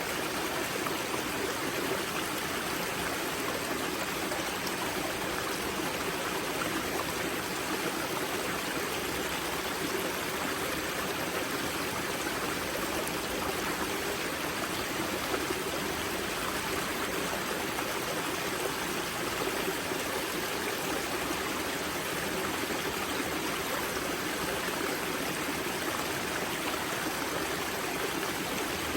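Steady rushing and burbling of a river at its spring, water flowing over rocks, with no change in level.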